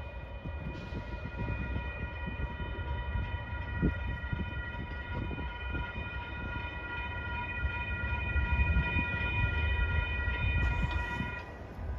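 Passenger train moving away past a grade crossing, with a steady low rumble, under a steady high ringing tone of several pitches that holds for about ten seconds and stops near the end.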